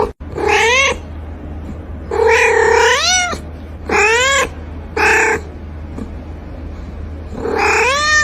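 A cat meowing five times; the second meow is the longest, and several of the calls rise in pitch at the end. A steady low hum runs underneath.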